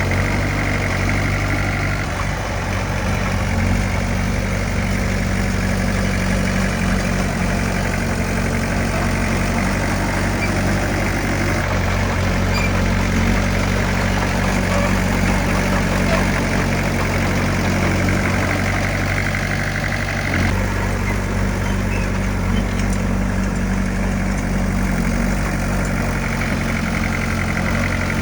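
Heavy diesel engine of earthmoving equipment running steadily, with a low, even drone; its tone shifts abruptly a few times.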